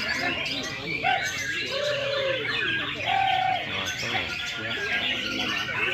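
Female white-rumped shama singing a fast, varied run of chirps and whistles over a busy chorus of other songbirds, with a few short, low, held whistled notes mixed in.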